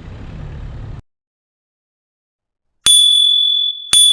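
Low background rumble that cuts off abruptly about a second in, then silence, then two bright bell-like dings about a second apart near the end, each ringing on as it fades: an added chime sound effect.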